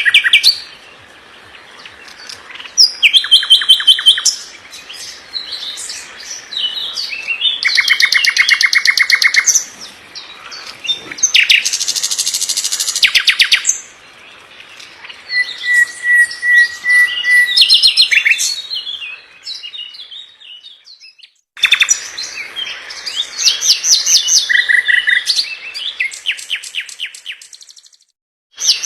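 A songbird singing loud, fast phrases of rapid trills and quickly repeated notes, with short pauses between phrases. The song drops out to silence for about a second twice, once about two-thirds of the way through and again near the end.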